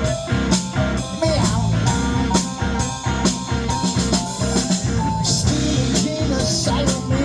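Instrumental passage of a blues-rock band: guitar with drum kit keeping a steady beat.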